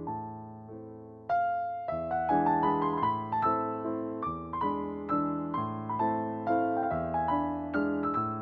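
Soft background piano music: a gentle melody with sustained chords, growing fuller and louder about a second in.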